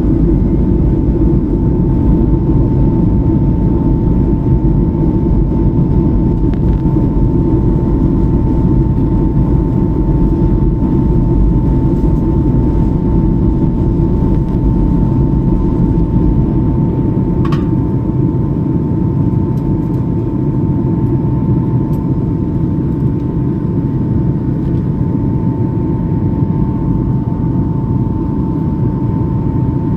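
Airliner noise during a landing approach: a steady loud rumble with a thin steady whine above it. The deepest part of the rumble eases a little past halfway through.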